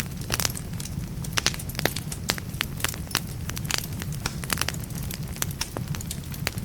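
Firewood burning in a fireplace, crackling: frequent sharp pops and snaps, several a second, over a steady low rumble of the flames.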